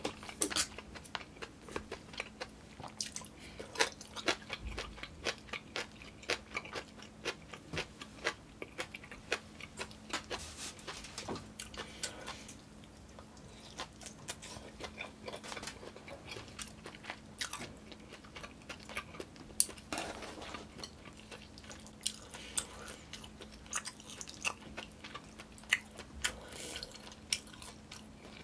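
Close-miked chewing and mouth sounds of a person eating yukgaejang and side dishes: frequent irregular wet clicks and smacks as food is bitten and chewed.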